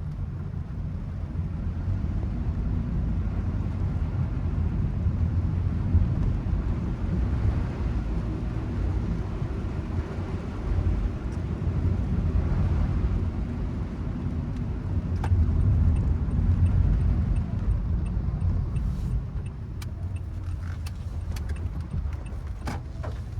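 Steady low road rumble of a car driving, heard from inside the cabin, with a handful of sharp little clicks in the last few seconds.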